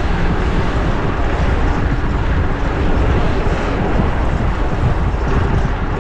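Steady, loud rush of wind on an action-camera microphone while riding a bicycle, with street traffic mixed in.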